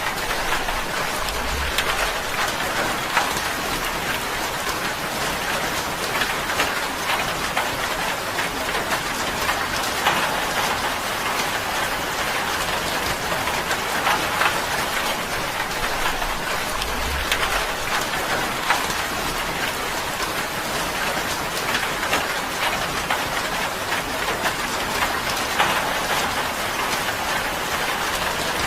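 Steady rain drumming on a tin roof, a dense patter of drops. Two brief low thuds come about a second and a half in and again about seventeen seconds in.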